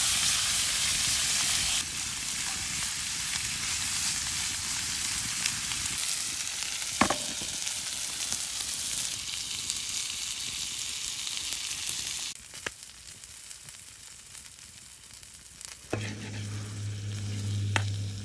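Food sizzling in a hot frying pan, with a few sharp clicks; the sizzle cuts down about twelve seconds in, and a low steady hum starts near the end.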